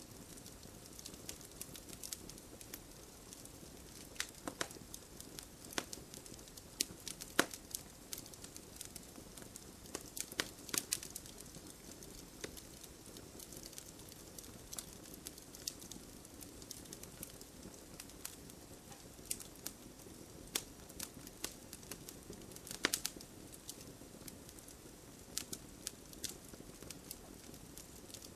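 Wood fire crackling, with irregular sharp pops and snaps over a steady low rush of burning; the pops come in clusters, densest a third of the way in and again about three-quarters through.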